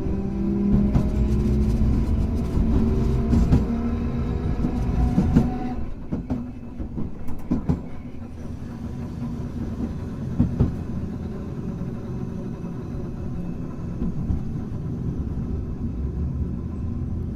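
Hankai Tramway car 351 running, its traction motor whine rising in pitch as the tram picks up speed, over low wheel-on-rail rumble. About six seconds in the motor note drops away and the tram coasts, with a few sharp clacks from the wheels over rail joints.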